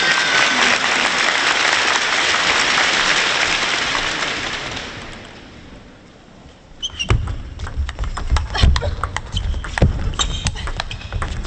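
Arena crowd applause fading out over the first five seconds, then after a brief lull, sharp irregular clicks of a table tennis ball striking the table and bats, with low thuds underneath.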